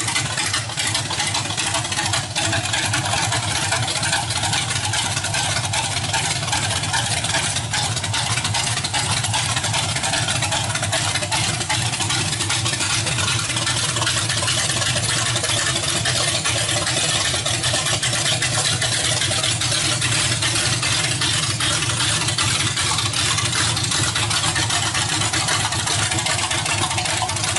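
Small-block V8 (a 383 stroker) in a 1937 Chevy truck, running steadily at a constant, fairly loud level.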